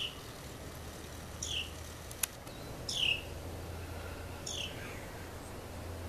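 A bird giving short, high calls that sweep downward in pitch, four of them about a second and a half apart, with a single sharp click a little past two seconds in.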